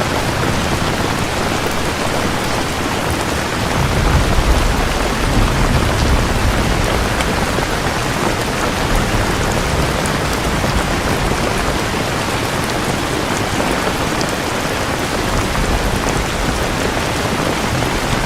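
Steady heavy rain. A low roll of thunder builds about four seconds in and fades over the next few seconds.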